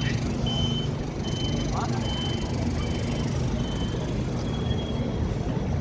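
A vehicle's reversing warning beeper sounding in short high beeps, a little over one a second, over the steady low hum of an idling engine.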